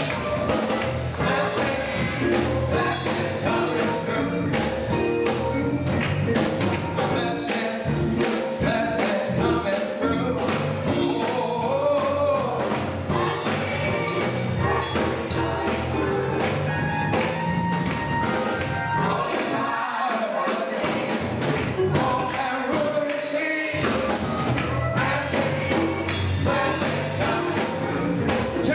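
Gospel choir singing with band accompaniment and a steadily shaken tambourine.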